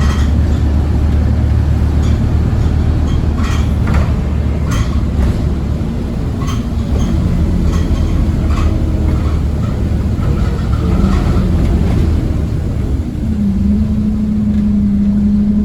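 Onboard a Scania OmniCity single-deck bus on the move: a steady low rumble of engine and road noise, with short rattles from the body and fittings. About 13 seconds in, the rumble gives way to a steady, higher engine hum.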